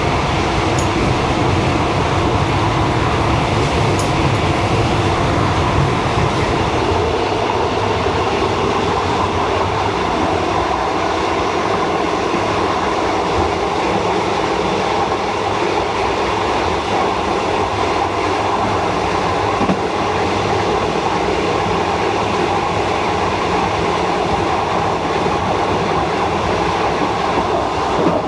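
Old diesel-hauled Thai passenger train running along the track, heard from on board: a steady, loud noise of the carriage and its wheels on the rails.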